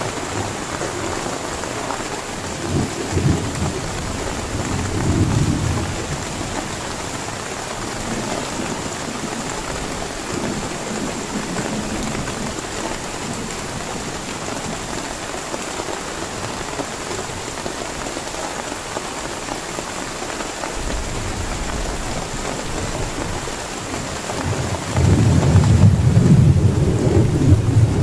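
Heavy rain falling steadily, with thunder rumbling twice a few seconds in and a louder, longer roll of thunder near the end.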